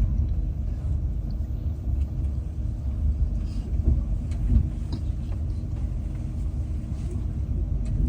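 Steady low rumble of a passenger train.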